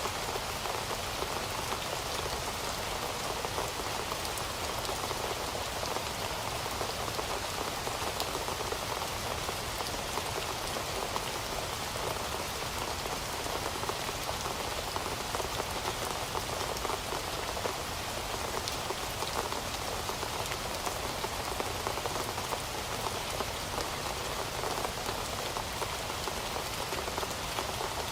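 Heavy rain falling steadily, a dense even hiss of countless drops with fine patters on a surface.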